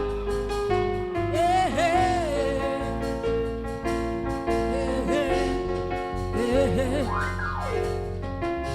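Live gospel music between sung lines: steady bass and sustained chords under a lead melody that bends and glides in pitch, with one long rising-then-falling glide about seven seconds in.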